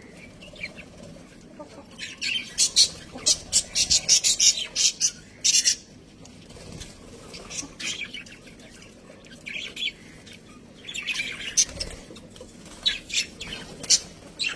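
Budgerigars chattering: quick runs of short, sharp chirps and squawks in two flurries, one about two seconds in and another near the end, with quieter stretches between.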